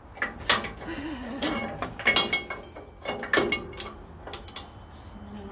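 Irregular metal clinks and knocks of a bolt and tools against the cast-iron frame and riser block of a 14-inch bandsaw as the block is lined up and bolted in, some strikes ringing briefly.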